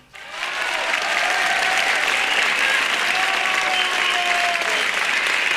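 Studio audience applauding at the end of a song, starting abruptly just after the music fades and carrying on at a steady level. It is heard on an FM broadcast recorded onto cassette tape.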